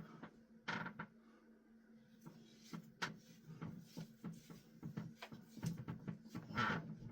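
Scissors snipping hair: a scattering of faint clicks and ticks, with two short louder swishes, about a second in and near the end.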